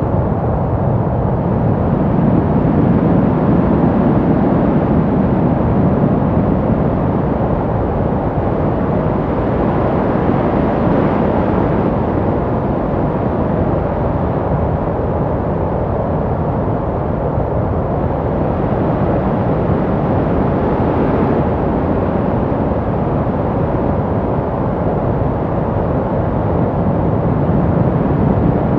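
Brown noise: a steady, deep hiss, strongest in the low end and thinning out toward the top, that rises and falls slowly and gently.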